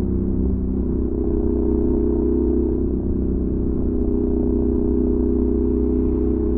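Honda NC700X parallel-twin engine running through a Danmoto XG-1 aftermarket exhaust, holding steady revs while riding, with a slight change in pitch a little under a second in.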